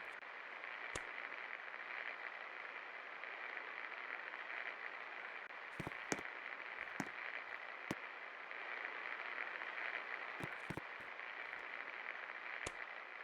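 36-inch Gold Star industrial ceiling fan running: a steady rushing whir, with occasional sharp clicks.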